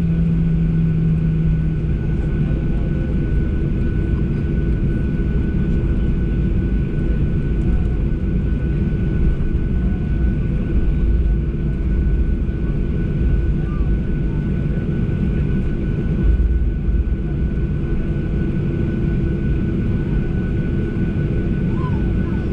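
Steady cabin noise inside a Boeing 737 with its jet engines running: a heavy low rumble with a constant hum and a thin steady whine over it, holding level throughout.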